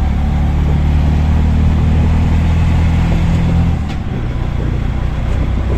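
Auto rickshaw's small engine running steadily under throttle amid road and traffic noise; about four seconds in, its low engine note drops away as the throttle eases off.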